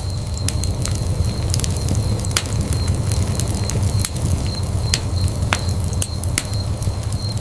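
Wood fire burning in a fireplace: a steady low rumble of flames with irregular sharp crackles and pops from the wood, several a second.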